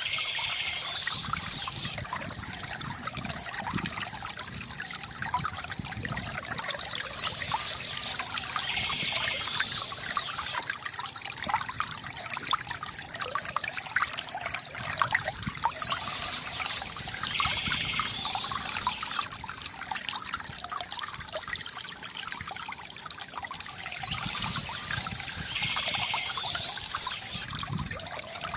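A small stream trickling and splashing over stones, steady and continuous, with a brighter hiss that comes back about every eight seconds.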